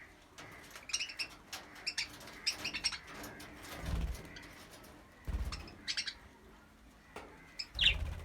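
Budgerigars chirping and chattering in quick, high, scratchy calls, with a few dull low thumps in between.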